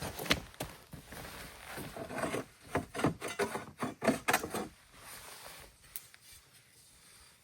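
Dry sticks and twigs being handled: a run of knocks, snaps and scraping wood for about five seconds, then it dies away.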